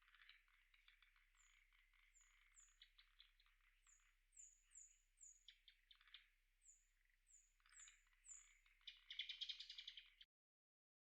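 About ten short, very high, thin down-slurred bird calls over a faint chorus of pulsing frog calls. The frog chorus grows loudest near the end, then all sound cuts off abruptly.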